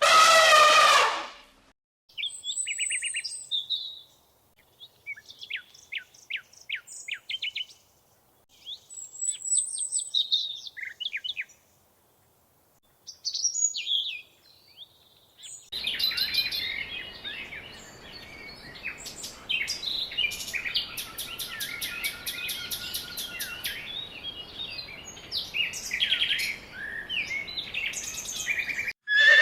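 Songbirds chirping and singing: scattered short high calls at first, then, from about halfway, many birds chirping at once over a steady hiss, like a flock. A loud drawn-out animal call dies away in the first second.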